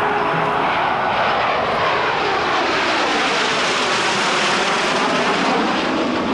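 Canadair CT-114 Tutor jet trainers, each with a single turbojet, flying past as a steady, loud jet noise with a hollow sweeping tone that falls and then rises again as they pass.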